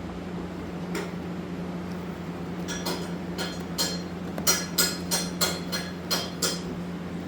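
A run of sharp, ringing metallic clicks and taps, two or three a second from about three seconds in, over a steady low hum.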